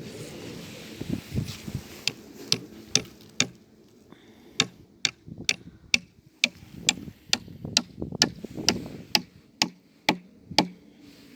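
A series of sharp knocks, about two a second, starting about two seconds in and stopping near the end.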